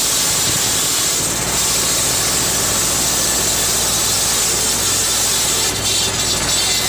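Tractor engine running steadily, driving a tractor-linked saw machine, with a loud steady hiss over the engine hum. The low hum firms up a little over a second in.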